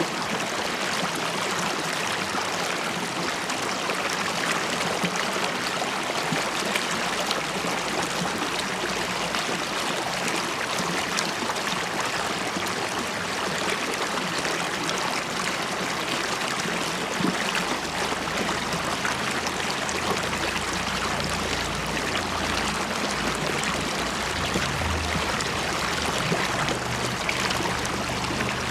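River water running and babbling over stones, a steady rush with fine bubbling and trickling, and a little more low rumble near the end.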